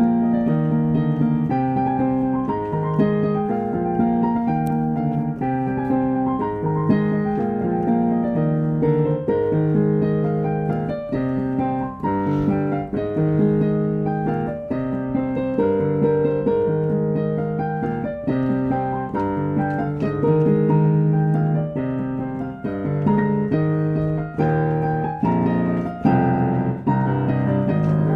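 Piano played without a break: a melody over held chords.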